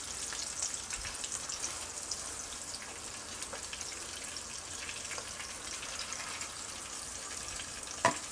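Beef seekh kebabs shallow-frying in oil in a pan: a steady sizzle with fine crackling. There is a single sharp knock near the end.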